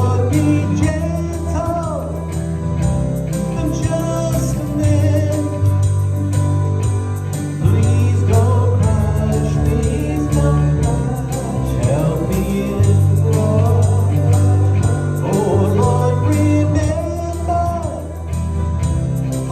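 Worship band music: a church band playing a passage of a worship song with singing over sustained bass notes that change every couple of seconds.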